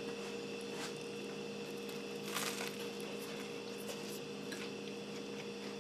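Faint crunching and chewing as someone bites into a sandwich on toasted bread, the clearest crunch about two and a half seconds in, over a steady low hum.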